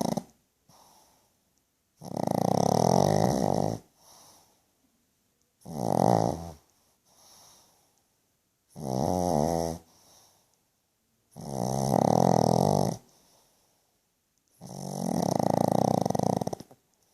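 Pug snoring loudly in its sleep: five long, pulsing snores about every three seconds, each followed by a much fainter breath.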